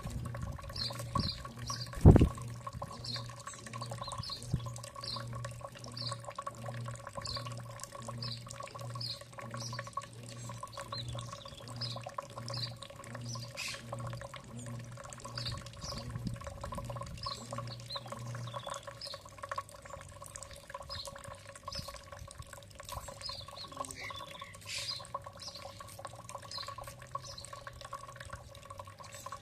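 Small bird calling in short, repeated chirps, one or two a second, over a steady low hum; a sharp knock about two seconds in, and the lowest part of the hum stops about two-thirds of the way through.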